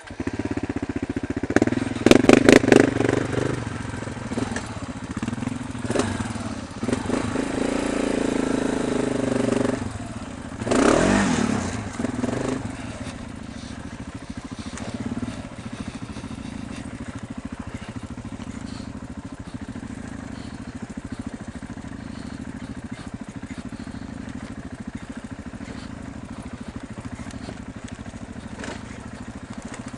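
Dirt bike engine running and revving, with a few sharp knocks about two seconds in and a rise and fall in engine pitch near the middle, then settling into a steady run.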